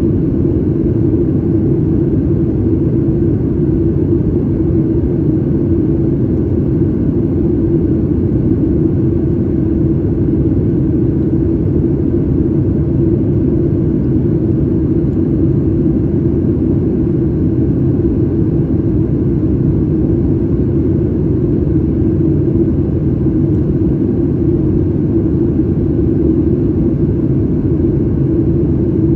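Steady rumble of a Boeing 737 MAX 8 airliner's engines and airflow heard inside the cabin, with a steady low hum running through it.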